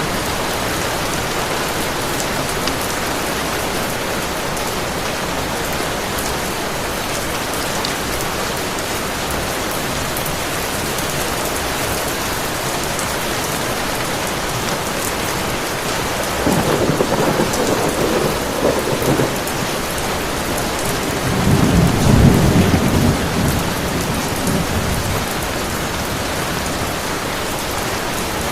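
Heavy rain pouring steadily, with thunder rumbling twice: a first roll about two-thirds of the way in, then a louder, deeper one a few seconds later.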